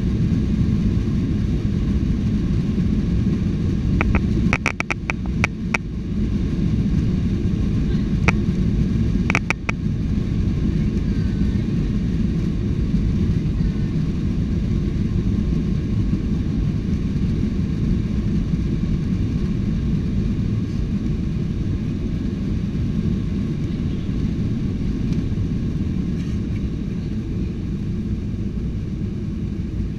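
Steady low rumble of a Boeing 737-800 airliner's jet engines and airframe heard from inside the cabin, with a few sharp clicks about four to six seconds in and again near ten seconds.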